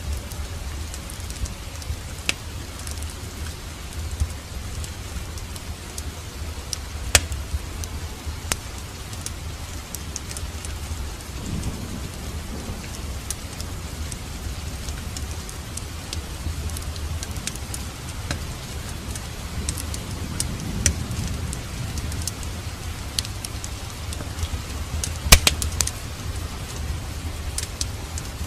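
Steady rain with a low rumble underneath and a wood fire crackling: scattered sharp pops throughout, the loudest cluster of them near the end.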